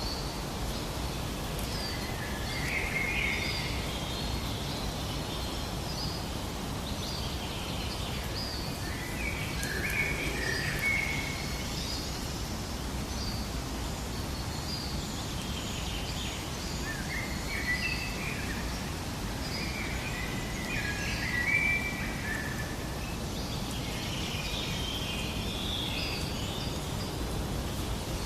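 Several birds chirping in short clusters of quick notes every few seconds, over a steady rushing hiss of ambient noise.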